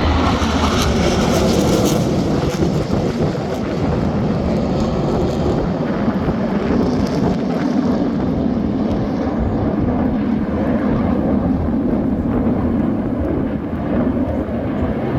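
KAI T-50B Golden Eagle jets, each with a single turbofan engine, sound as they pass in a display flyby. The jet noise is brightest and hissiest in the first two seconds, then settles into a steady, loud rumble.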